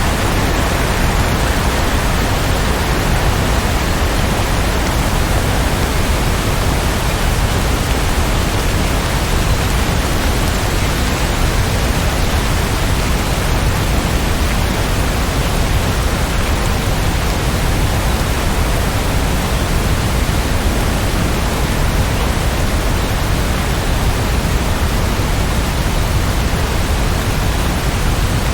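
Steady rain, an even unbroken hiss that does not change.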